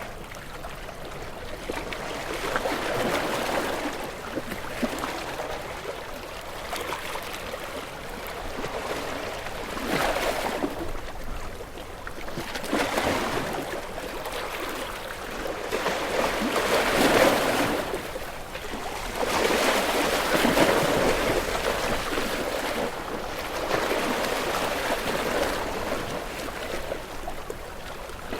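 Water washing in and out in surges that swell and ease every two to four seconds, like small waves lapping.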